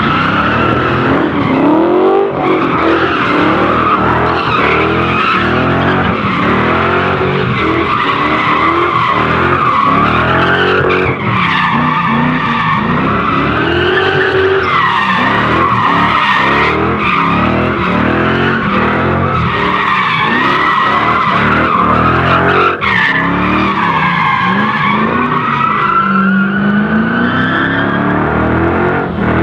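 Car doing donuts: tires squealing steadily while the engine revs up and down.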